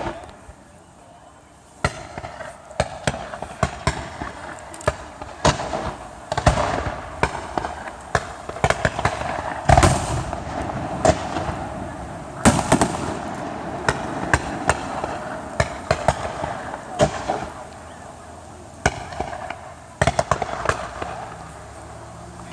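Fireworks going off in a rapid series of bangs over continuous crackling, starting about two seconds in, with the loudest bursts about ten and twelve seconds in.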